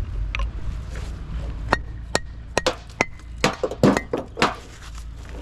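Irregular series of about ten sharp knocks over some three seconds, several with a brief metallic ring, like hammer strikes on metal, over a steady low rumble.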